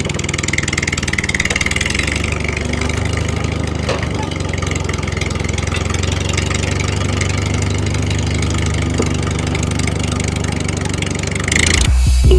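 A homemade miniature tractor's small engine running steadily, with a fast, even chatter of rapid pulses over a low hum.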